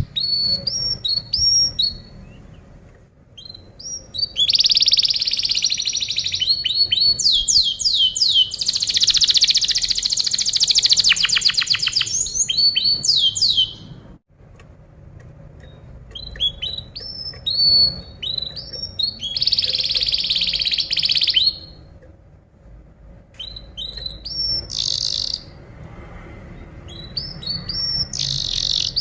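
Domestic canary singing: long phrases of fast chirps and rapid rolling trills, broken by brief pauses of a second or two.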